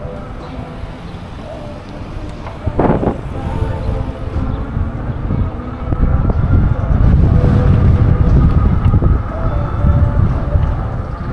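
Wind buffeting the microphone and road rumble while riding a Lectric XP e-bike, louder in the second half, with a short swish about three seconds in.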